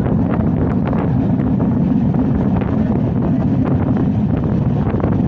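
Bonolota Express passenger train running: a steady low rumble, with wind buffeting the microphone and a few faint clicks.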